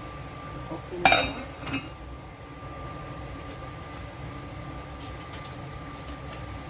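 Kitchenware clinking: one sharp clank about a second in that rings briefly, then a smaller knock, over a steady hum.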